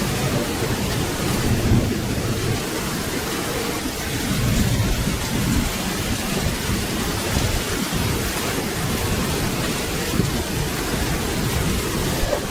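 Steady rain with a low, rolling thunder rumble underneath.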